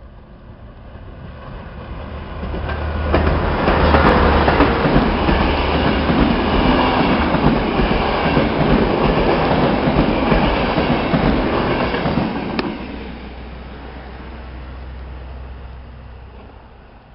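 Locomotive-hauled intercity passenger train passing through a station at rather low speed. It grows louder as it approaches, stays loud for about ten seconds as the coaches run by, then fades away, with a steady low hum underneath.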